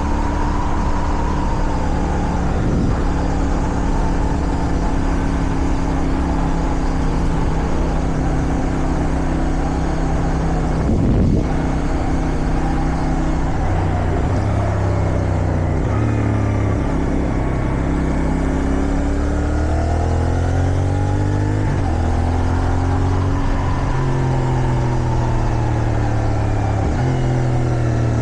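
CFMoto 450SR parallel-twin motorcycle engine running steadily at cruise under wind noise. From about halfway the engine speed rises and falls repeatedly, stepping up and sliding down with gear changes.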